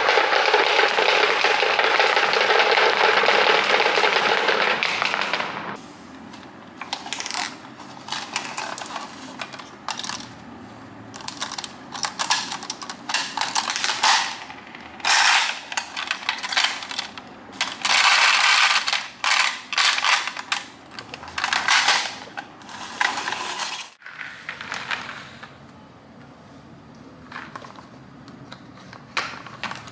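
A dense, steady rush of noise that cuts off abruptly about five and a half seconds in, followed by small hard objects clicking and clattering in irregular short bursts.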